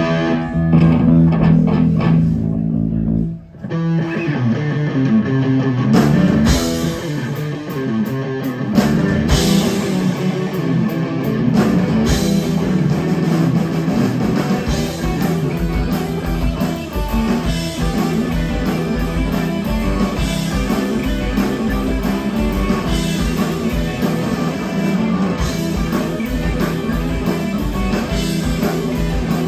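Live rock band playing an instrumental passage on electric guitar, bass and drum kit. The music drops out briefly about three seconds in, then comes back with the drums and cymbals hitting hard.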